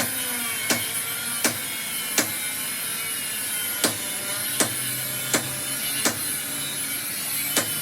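Hammer blows, evenly paced at about one every three-quarters of a second with a short break around the middle, over a steady background hum.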